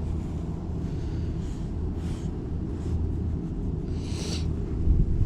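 Wind buffeting the microphone, a steady low rumble, with a few brief rustling swishes, the loudest about four seconds in.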